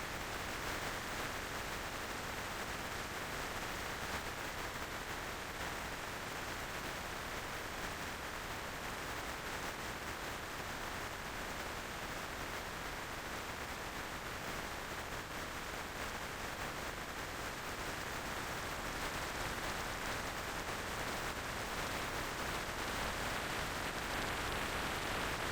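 Steady rushing wind and road noise heard on a moving motorcycle, with no clear engine note.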